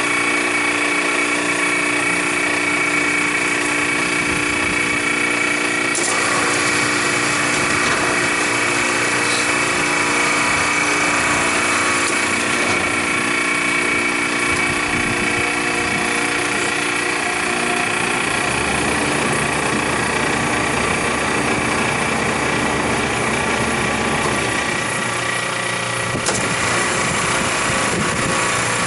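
Freezer condensing unit running steadily, its compressor and condenser fan giving a constant hum with several steady tones. It is being liquid-charged with R-404A refrigerant because it is low on charge.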